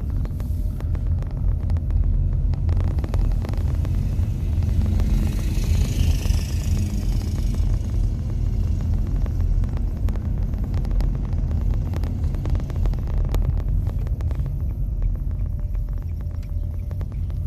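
Steady low road and tyre rumble of an electric car (Nissan Leaf) driving, heard inside the cabin with no engine note, with a brief rise of hiss about six seconds in.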